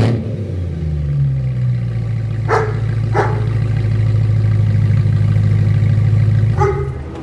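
BMW M3 convertible engine through a Remus sport exhaust with X-pipe, held at steady raised revs with a deep drone, then dropping back to idle near the end. A sharp crack sounds right at the start, and a few short sharp sounds come over the drone.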